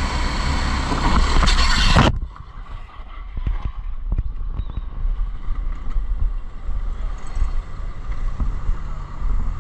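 Motorcycle riding, with loud wind rush on the camera microphone that cuts off abruptly about two seconds in. After that comes a quieter low rumble with scattered short knocks.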